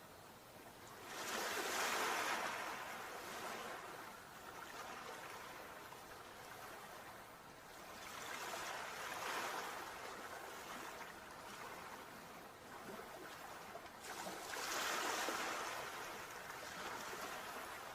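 Sea waves breaking and washing up the shore, three swells of surf roughly six seconds apart, each rising and then fading.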